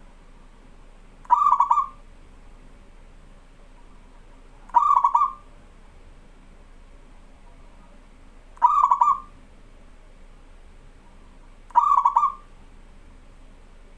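A zebra dove (perkutut) cooing. It gives four short rolling coo phrases about three to four seconds apart, each a quick run of low notes, with a faint steady hum between them.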